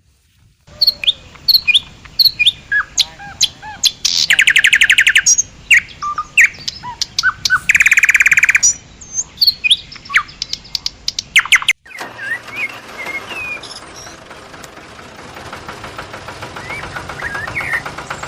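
Songbirds chirping with quick sliding calls, broken twice by a loud, rapid trill lasting about a second. About twelve seconds in, the sound cuts abruptly to a softer, continuous chorus of bird calls.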